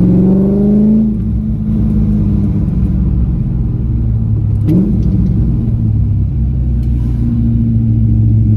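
C5 Corvette's cammed LS1 V8 running under way, heard from inside the cabin. The engine note climbs in pitch in the first second, then holds steady, with a short rise in pitch about five seconds in.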